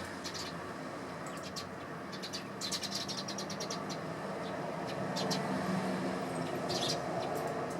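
Eurasian tree sparrows chirping in short, scattered high calls, with a quick run of chirps about three seconds in, over a steady low background rumble.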